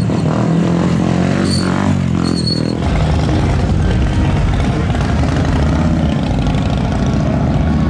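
Music trails off in the first few seconds, then motorcycle engines give a loud, steady low rumble.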